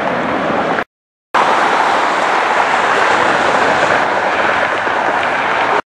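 Jet airliner engines heard from the ground: a steady, loud rushing roar. It cuts out completely for about half a second about a second in, then comes back just as loud, and drops out again at the very end.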